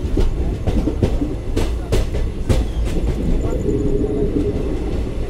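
ICF passenger coach running at speed: a steady low rumble of wheels on track, with a run of sharp wheel clacks over rail joints in the first three seconds.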